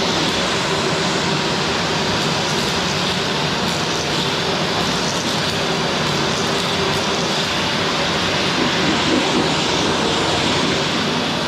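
Qilive vacuum cleaner running steadily: an even rush of suction air with a faint motor hum underneath.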